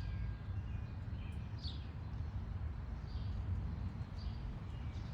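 A bird calling outdoors: short, high notes that slide downward, repeated about every second, over a steady low rumble.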